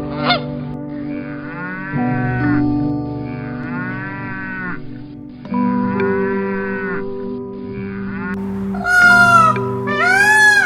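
Cattle mooing: a run of long, drawn-out calls, one after another. About nine seconds in, a higher-pitched, arching call of another animal begins.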